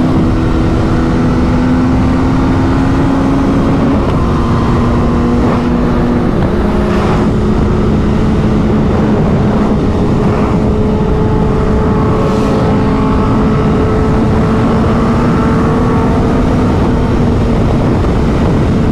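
Sport motorcycle engine running at a steady cruising speed, its drone drifting only slightly in pitch over a dense low rumble.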